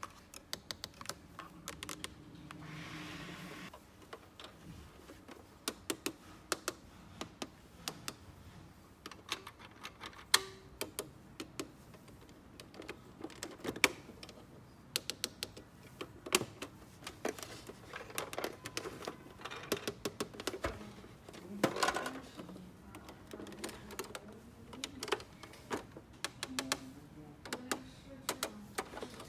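Small plastic toy pieces being handled, clicked and set down: an irregular run of sharp clicks and taps, with a brief rustle about two to four seconds in.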